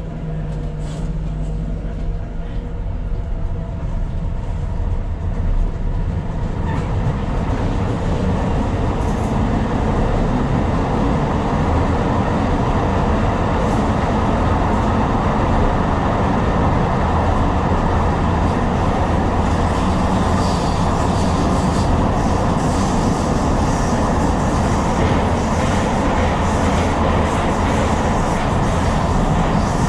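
Tyne and Wear Metro train picking up speed, its running noise building over the first several seconds. Then its wheels rumble steadily on the rails.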